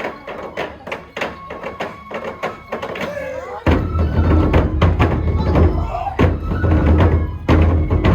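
Traditional nenbutsu kenbai accompaniment: taiko drum and percussion keeping a fast steady beat with a held pipe-like tone over it. About halfway through the sound grows louder with a heavy low booming.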